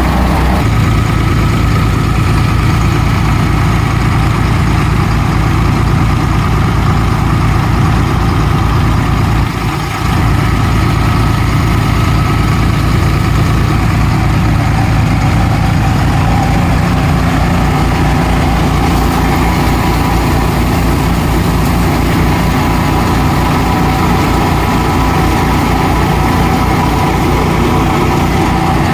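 Swaraj 735 tractor's diesel engine running steadily under a cutter thresher working mustard, with a brief dip in level about ten seconds in.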